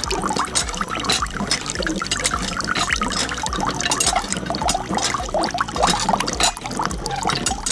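Water pouring from a miniature toy hand pump's spout into a small trough and trickling out through its spouts into a pool below: a steady splashing trickle.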